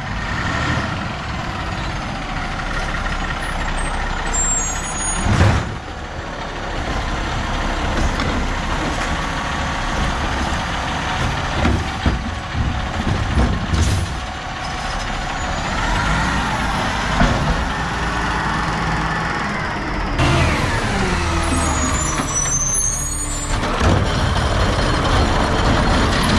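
Garbage trucks heard in a series of short clips: diesel engines running and rising and falling in pitch, with short hisses typical of air brakes.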